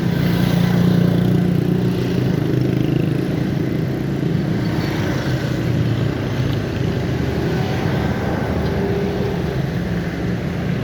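A motor vehicle engine running steadily with a low, even hum, against general road noise.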